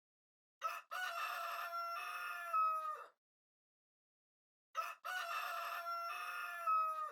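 Rooster crowing cock-a-doodle-doo twice, each crow about two and a half seconds long and ending on a falling note.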